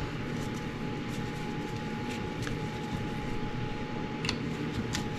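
Steady background hum with a thin constant tone, and a few faint clicks of hand tools on the engine's cylinder nuts.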